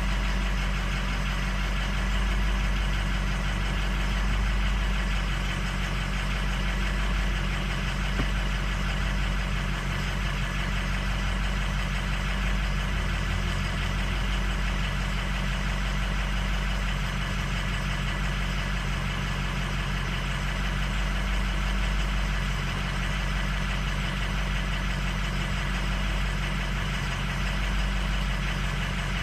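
Ford 6.0 Power Stroke V8 turbo-diesel idling steadily after a cold start, with its injector fuel-balance compensation switched off for a power balance test.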